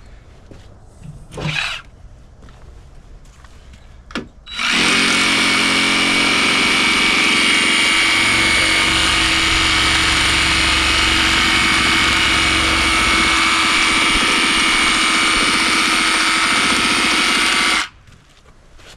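A handheld power tool running at one steady speed with a high whine for about 13 seconds. It starts about four and a half seconds in and stops abruptly near the end. A few short knocks come before it.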